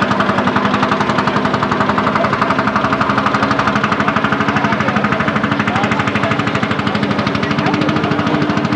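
An engine idling with a fast, even hammering beat that holds steady.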